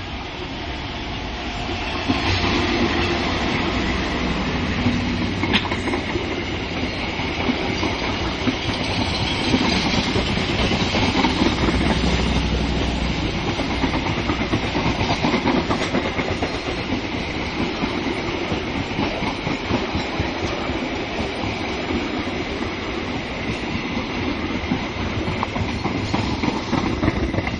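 A train passing close by, its carriages' wheels clattering rapidly over the rail joints. The rumble builds over the first two seconds and then holds steady.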